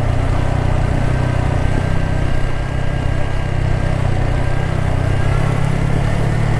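Motorcycle engine running steadily while riding at an even pace.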